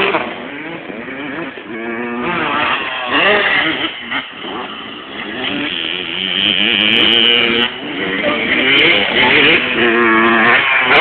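Motocross bike engines revving on the track, their pitch rising and falling over and over as the riders open and close the throttle.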